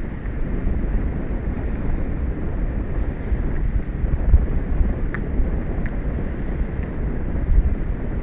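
Wind buffeting an outdoor microphone on an offshore platform, a steady gusty low rumble, with two faint ticks about five and six seconds in.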